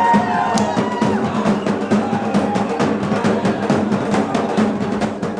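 Drum-driven music with rapid, dense drumbeats. A held tone in the music fades out about a second in.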